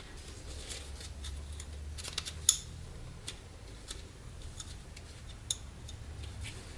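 Scattered light metallic clicks and clinks of small parts being handled, the sharpest about two and a half seconds in, over a low steady hum.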